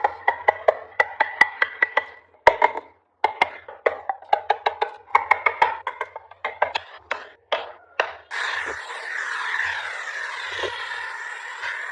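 Rapid hard taps on wood, several a second, each with a short hollow ring, as in carving a hiba wood block. About eight seconds in they give way to a steady rasping noise of wood being worked.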